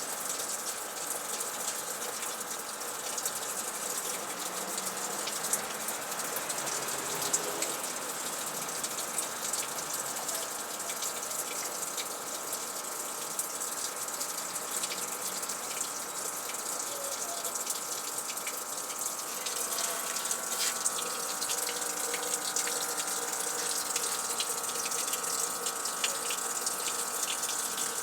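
Water rushing steadily through a Frigidaire washing machine.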